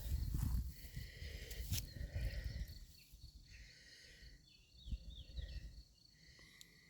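Birdsong outdoors: short whistled phrases and chirps from small birds, with a faint steady high-pitched tone behind them. A low rumble fills the first three seconds, then fades.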